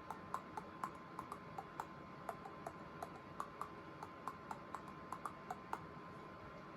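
Teeth clicking together in a quick rhythm, the pitch of each click shifting as the mouth shape changes, picking out a song's melody. The clicks stop a little before the end.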